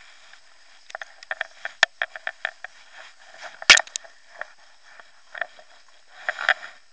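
Irregular sharp taps and clicks, about a dozen in quick succession, then one loud knock about halfway through and a short cluster of taps near the end.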